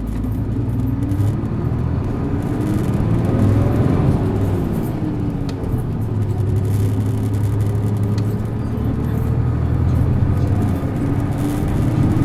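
Isuzu Erga PJ-LV234N1 city bus's diesel engine pulling hard under acceleration. The engine note climbs, drops about four seconds in as it changes gear, then climbs again through most of the rest.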